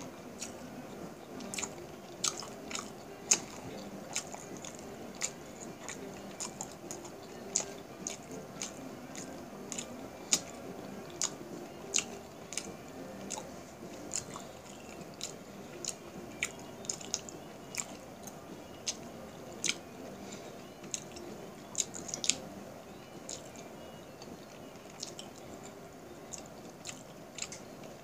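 Close-miked chewing of soy-sauce fried rice, with frequent sharp wet clicks and smacks about once or twice a second.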